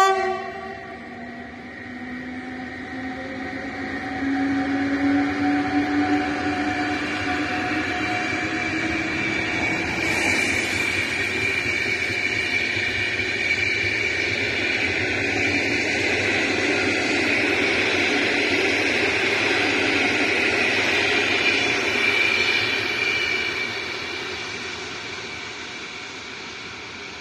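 A locomotive-hauled PKP Intercity passenger train passing at speed, with its wheels on the rails building to a loud, steady rush and fading as it draws away near the end. The last of its horn blast ends right at the start, and a whine rises slowly in pitch during the approach.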